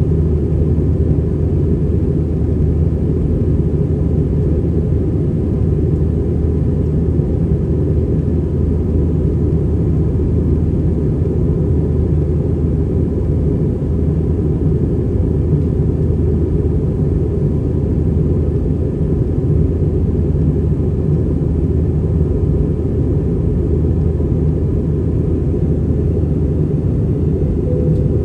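Steady, unchanging low rumble inside the cabin of an Airbus A320-200 airliner, from its engines and the air rushing past the fuselage.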